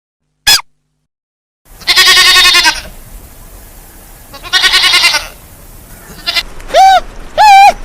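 Goat bleating: two long, wavering bleats, then two shorter bleats near the end that rise and fall in pitch.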